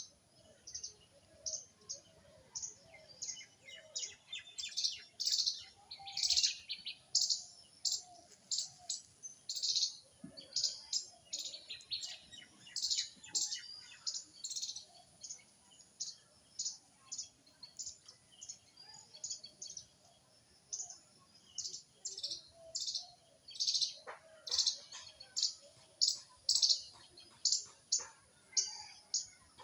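Small birds chirping: short, high chirps repeated about two a second, with a thin, steady high tone behind them.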